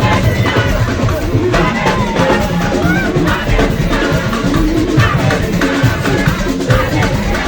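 Upbeat church band music driven by a drum kit with a thudding bass drum, playing a steady beat.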